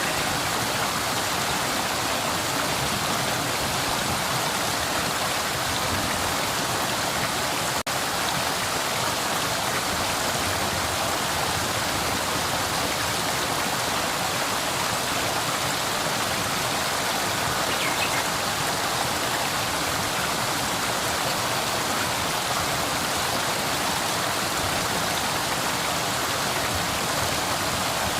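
River water flowing steadily, a continuous even rush of water, with a momentary dropout about eight seconds in.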